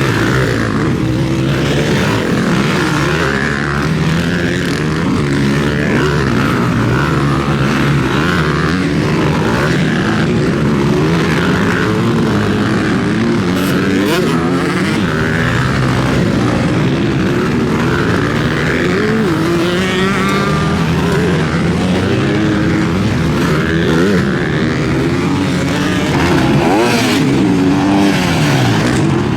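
Several motocross bikes racing round the track, their engines overlapping and revving up and down without pause as riders accelerate and shut off through the course.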